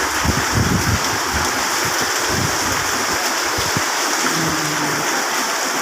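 Heavy rain pouring steadily, a dense hiss of falling water, with gusts of wind buffeting the microphone in the first couple of seconds.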